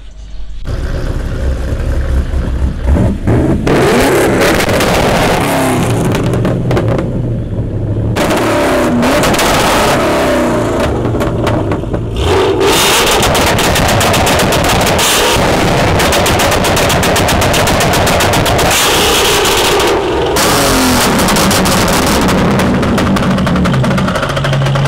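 Car engines revved hard again and again, each pull with a rapid crackling stutter at the top of the revs, then revs falling away. Between pulls there are short drops in level.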